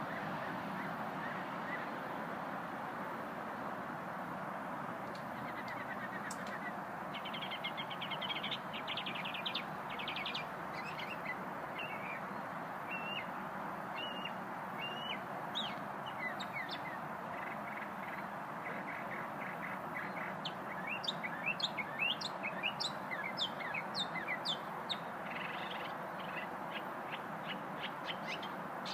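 A small songbird singing a varied song that starts about five seconds in: a buzzy trill, scattered chirps and short whistled notes, then rapid runs of quick falling notes and a fast repeated-note trill. A steady background rush runs underneath.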